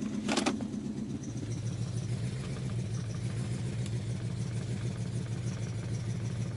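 Chrysler 5.7L Hemi V8 running at idle through its exhaust, a steady low note. There is a short sharp noise near the start, and the note settles a little lower after about a second.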